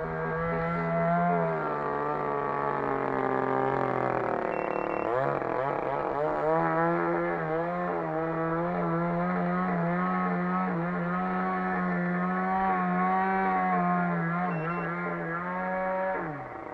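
RCGF 20cc single-cylinder two-stroke petrol engine of a model airplane running at high throttle, its pitch sinking over a few seconds as the throttle is eased, then opening up again and holding high with small wavers in pitch, before being throttled back sharply near the end.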